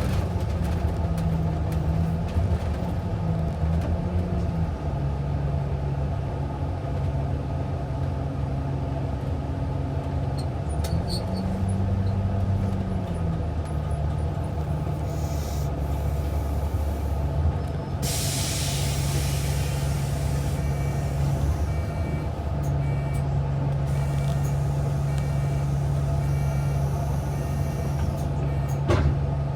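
A transit bus's engine hum heard from inside the bus, its pitch rising and falling as it pulls away and slows. About 18 seconds in there is a loud hiss of air from the air brakes.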